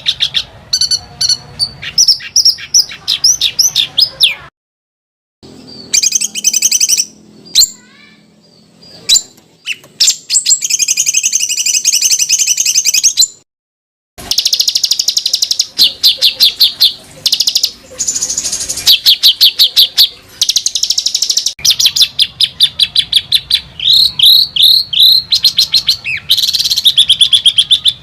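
Songbird masteran recording: fast, tightly packed rolling trills and harsh, rattling rapid-fire call notes, repeated in quick runs. Two brief abrupt silences, about 5 s and 14 s in, mark spliced joins between clips.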